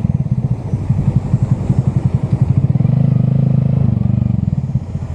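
A vehicle engine running steadily at low speed: a fast, even, pulsing low rumble.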